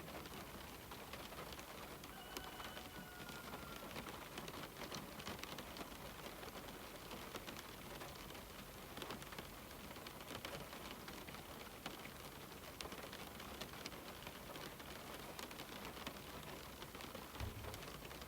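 Steady rain falling on a window, an even hiss dotted with many separate drop taps. A faint short whistle-like tone sounds about two seconds in for roughly a second and a half.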